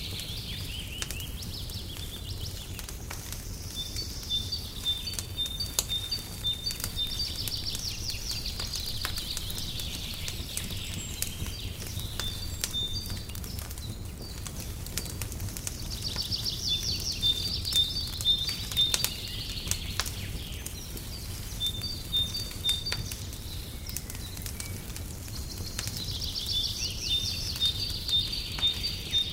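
Fireplace crackling with scattered sharp pops over a steady low rumble, while a songbird sings high, rapid trilling phrases that come back about every ten seconds.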